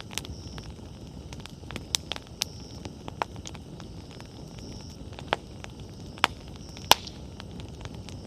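Wood bonfire burning: a steady low rush of flames broken by sharp crackles and pops, the loudest pop about seven seconds in, with a faint high hiss that comes and goes.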